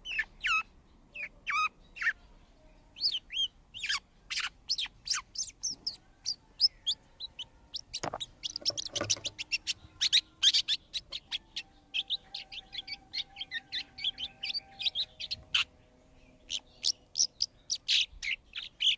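Birds chirping: a rapid, irregular series of short, sharp chirps that grows busier about halfway through, with a single sharp click near the middle.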